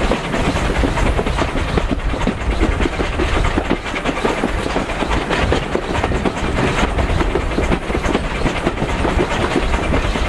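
Passenger carriage riding along the line behind a steam locomotive: a steady rumble of wheels on rails with dense clattering from the running gear and track.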